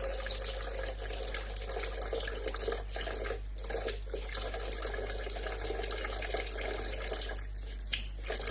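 Water running steadily, like a tap into a sink, over a steady low hum.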